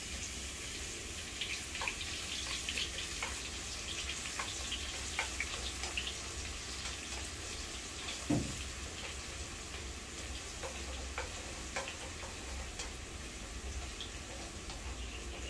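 Bruised lemongrass stalks sizzling in hot oil in a frying pan, a steady hiss with scattered small pops and crackles. A single light knock about eight seconds in, as chopsticks stir the pan.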